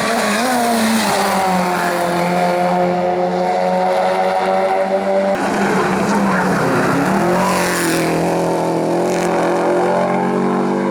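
Racing car engine running hard at high revs. Its pitch holds high, dips briefly about six seconds in, then climbs again.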